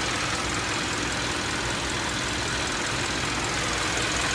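2011 Hyundai Sonata's four-cylinder engine idling steadily with no rod knock, nice and quiet after a repair of a spun number one rod bearing.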